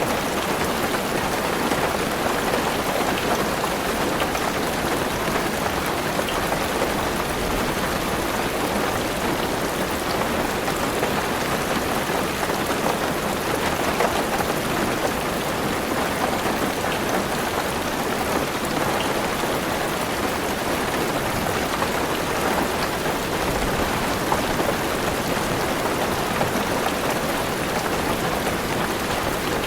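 Heavy rain falling steadily on a car's roof, heard from inside the car: an even, unbroken hiss of rain with faint ticks of single drops.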